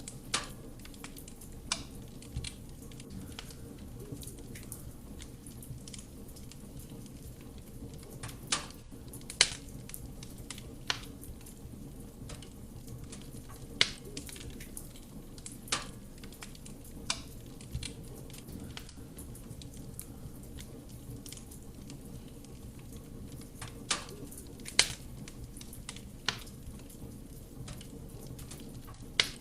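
Wood fire burning in a fireplace: a steady low rumble of flame with irregular sharp crackles and pops from the burning logs, a few of them much louder.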